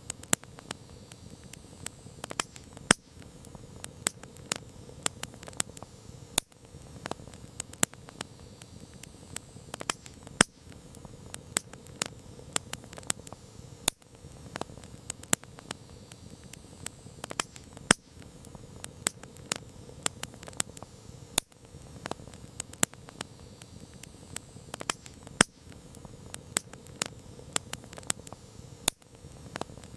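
Campfire crackling: burning wood gives off irregular sharp pops and snaps, several a second, some much louder than others, over a steady low hiss of flames.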